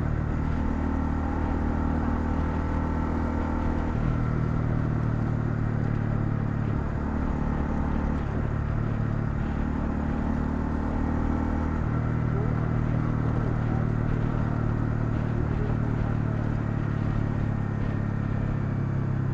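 Honda CL250 single-cylinder engine running under way, with a steady exhaust note that shifts in pitch a few times, at about 4, 7 and 12 seconds in.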